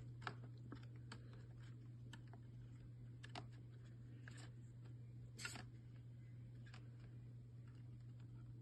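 Near silence: a low steady hum with scattered faint light clicks and taps at irregular intervals.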